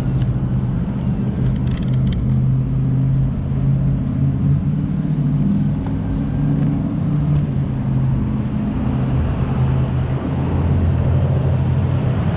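Motor traffic running close by: a steady low engine hum with road noise.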